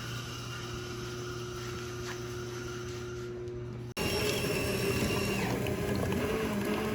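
Self-serve coffee machine running steadily with a pump-like hum while it makes a drink. The sound cuts off abruptly about four seconds in and is replaced by a louder steady machine whir.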